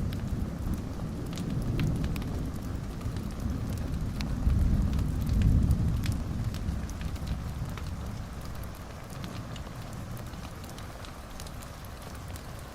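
Wood fire crackling in a fireplace: scattered sharp pops and snaps over a low rumble that swells about five seconds in and then eases.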